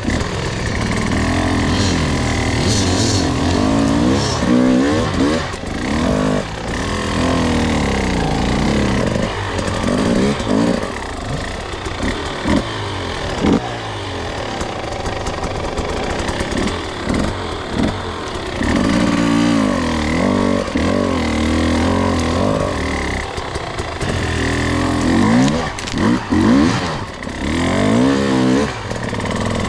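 Two-stroke enduro dirt bike engine being ridden, its revs rising and falling again and again as the throttle is opened and eased off.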